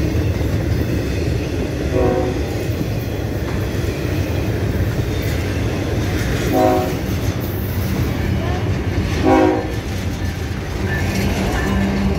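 Intermodal freight train rolling past close by, a steady rumble of wheels on rail. Three short train-horn blasts sound, at about two, six and a half and nine seconds in. Near the end a locomotive's steady engine hum comes in as the oncoming train draws near.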